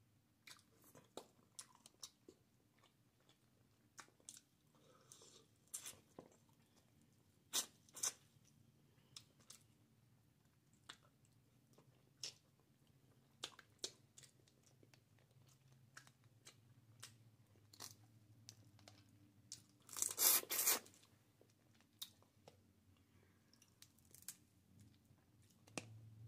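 Close-up mouth sounds of a person eating crab and crawfish: scattered wet smacks and sharp clicks of chewing, with a louder run of crunching a little after twenty seconds in, over a faint steady low hum.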